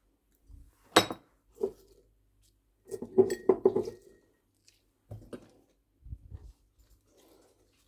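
Dishes and cutlery clinking and knocking in a kitchen: one sharp clink about a second in, a quick run of clinks with a short ring around three to four seconds, then a few softer knocks.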